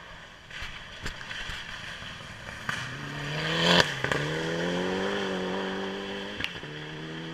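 Rally car engine with scattered exhaust pops and crackles, then a rising engine note as it accelerates, a sharp backfire-like bang about four seconds in, and the engine holding steady after.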